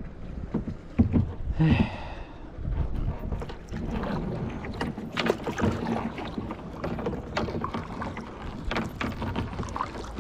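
Kayak being paddled on a lake: the paddle dips and splashes in the water, with irregular knocks, and a short pitched sound about two seconds in.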